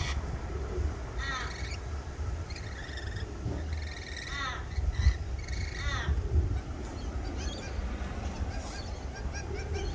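Birds calling: a string of short, harsh squawks with a wavering pitch, repeated every second or so, over a steady low rumble.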